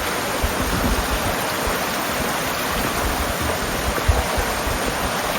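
Small babbling brooks running where they join, a steady rush of flowing water.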